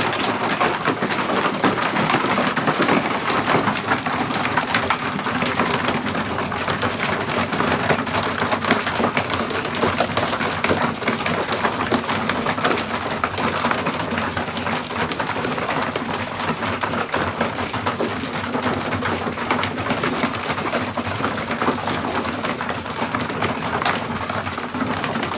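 Racing pigeons inside a loft cooing, with a constant fine clatter of wings and feet.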